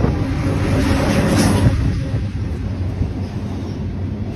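A train passing close by with a loud, steady rumble and rushing noise, brightest about a second and a half in.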